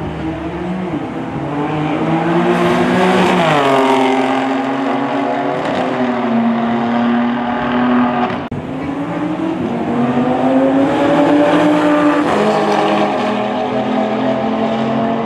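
Performance cars at full throttle in a roll race, engines climbing in pitch and dropping sharply at an upshift about four seconds in. A second hard run follows, its engine note climbing again with another upshift near the end.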